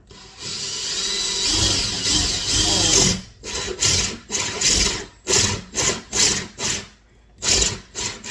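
Power drill boring a hole: one long run of about three seconds, then a string of short trigger bursts as the bit works through.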